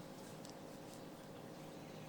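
Quiet room tone: a faint steady hum, with a couple of faint soft ticks about half a second in.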